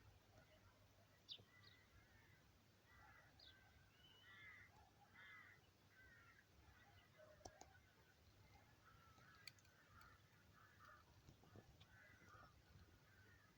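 Faint, distant birds calling, many short calls scattered through, over quiet low background noise, with a couple of faint clicks in the middle.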